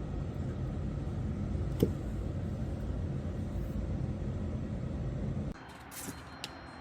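Steady low rumbling noise with a single sharp click about two seconds in; the rumble cuts off abruptly about five and a half seconds in, leaving a quieter background with a few light clicks.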